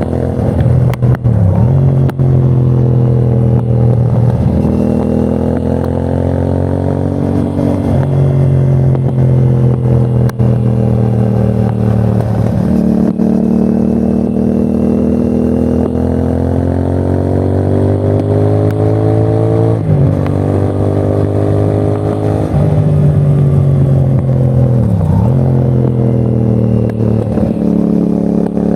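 CFMOTO 450NK's parallel-twin engine under way on the road. The revs climb slowly and drop back sharply several times, as at gear changes.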